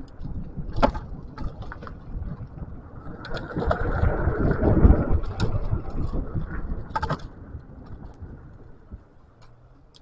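Scooter rumbling and rattling over a rough, broken road surface, with sharp knocks from jolts. The noise is loudest about halfway through, then dies away as it slows to a stop near the end.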